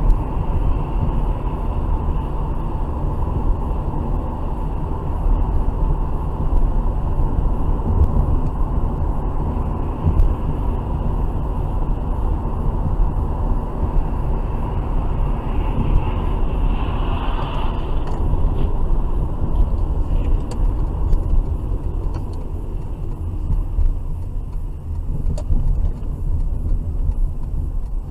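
A car on the move, heard through a dash camera: a steady low rumble of engine and road noise.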